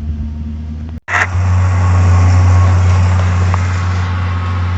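Farm tractor engine running steadily as it drives past on the road, a low drone with road noise; the sound drops out briefly about a second in and comes back louder.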